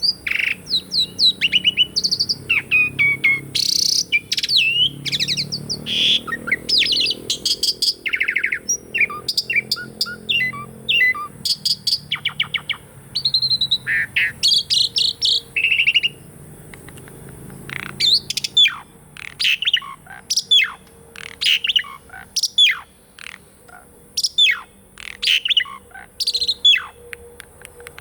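Pied starling (jalak suren) singing a loud, varied song of whistles, chirps and sweeping notes; in the last third it turns to a run of quick, falling whistled notes.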